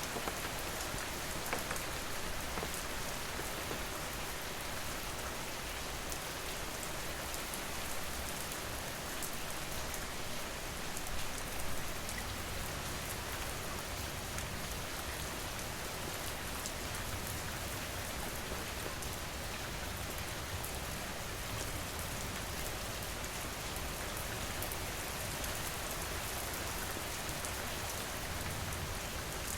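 Steady rain falling on a surface, an even wash of noise with individual drops heard as fine ticks; a few drops land slightly louder about eleven seconds in.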